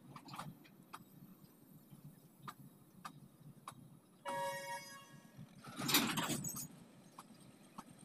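Loaded freight train of hopper wagons rolling past with a low rumble and scattered wheel clicks. A diesel locomotive's horn sounds briefly a little past four seconds in, and a louder rushing noise follows about six seconds in.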